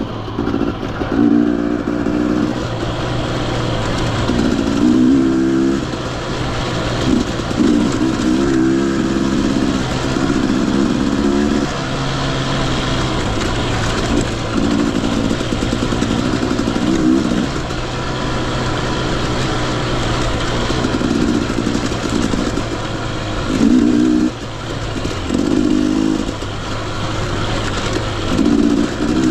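Husqvarna TE 250i single-cylinder two-stroke dirt bike engine being ridden, revving up and down in repeated short bursts over a steady lower drone.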